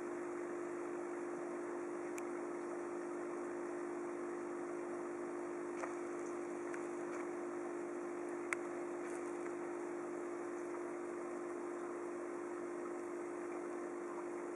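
Aquarium equipment, such as a filter or air pump, running with a steady hum and an even hiss. Two faint clicks come about six seconds in and again about two and a half seconds later.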